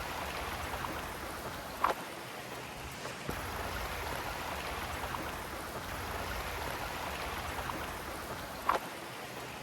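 Creek water rushing steadily, with two short sharp taps, one about two seconds in and one near the end.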